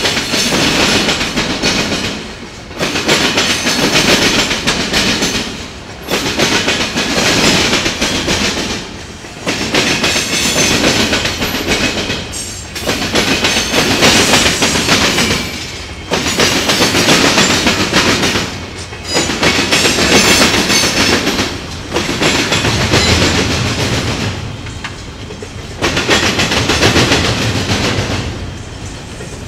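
Freight cars rolling over a railroad diamond crossing: heavy clattering of steel wheels pounding across the crossing, swelling and easing about every three seconds as each car's trucks pass over.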